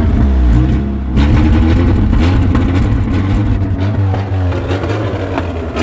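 Toyota AE86 Corolla's four-cylinder engine running rough and loud through a snapped, leaking exhaust header, with small changes in engine speed. To the people there it sounds like a broken sewing machine.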